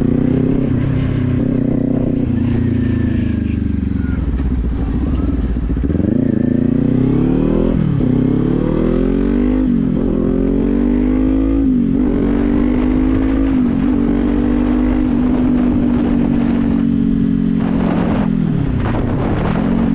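Motorcycle engine accelerating up through the gears, with smooth, clean upshifts. The note falls at first, then climbs, and drops sharply at each quick upshift, about three in a row near the middle. It then holds steady in fifth gear.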